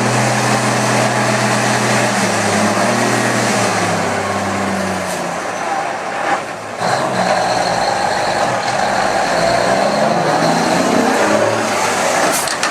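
Dump truck's diesel engine running, its note steady for about five seconds, dropping away briefly after six seconds, then coming back with a wavering pitch.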